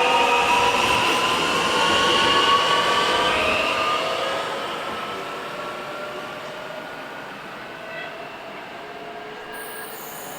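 Train running on the track with several high whining tones that rise slowly in pitch; it fades steadily from about four seconds in as it moves away.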